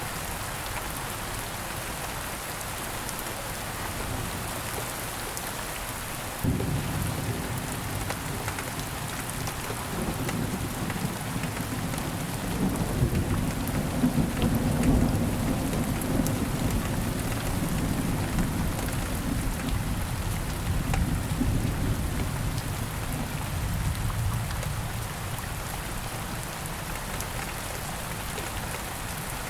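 Steady rain falling, with a roll of thunder that starts suddenly about six seconds in. The thunder is loudest in the middle and dies away near the end.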